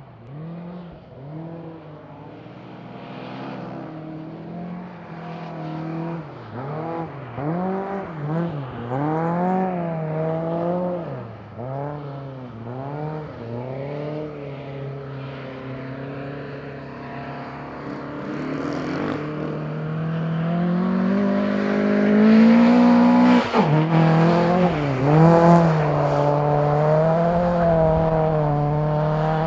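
Volvo 242 rally car's engine revving up and down again and again as the car slides on wet lake ice, growing louder in the second half.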